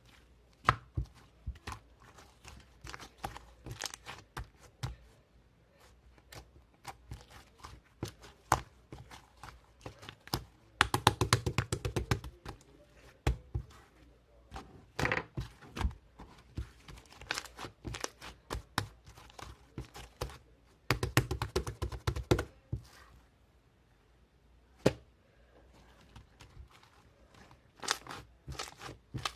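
Irregular clicks, taps and knocks of small objects being handled, with two short rapid rattling bursts, one about eleven seconds in and one about twenty-one seconds in.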